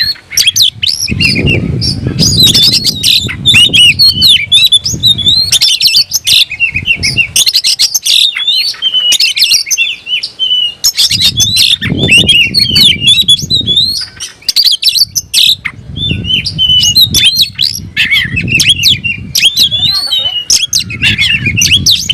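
Oriental magpie-robin (kacer) singing fast and without a break: a loud, varied stream of whistles, trills and harsh scratchy notes, the song of a bird in fighting mood. A low rumble comes and goes underneath several times.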